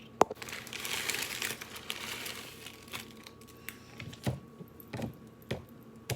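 A sharp click, then about two seconds of crinkling and rustling as something crinkly is handled, followed by a few scattered taps and knocks.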